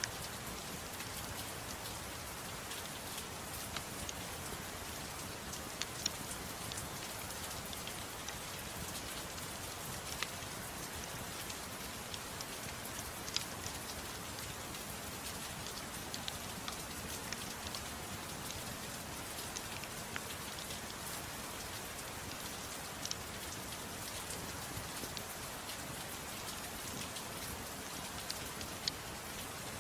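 Steady rain falling, an even hiss with scattered sharp pops and ticks every second or two.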